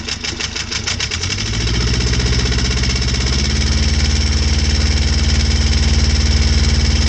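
Beta 14 marine diesel engine running with a new PRM 60 gearbox connected. It is uneven for the first second or so, then settles into a steady run.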